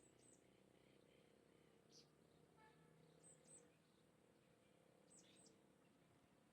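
Faint, high, short bird chirps, mostly in pairs, falling in pitch and repeating every second or two over a very quiet background.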